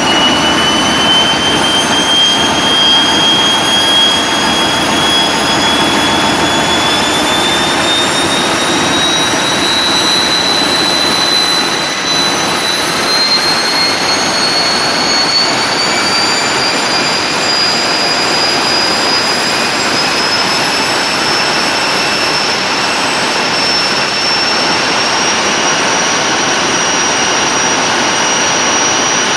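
A TEP70 diesel locomotive's turbocharger whistling over the diesel's running noise, its pitch rising slowly and steadily as the turbocharger speeds up.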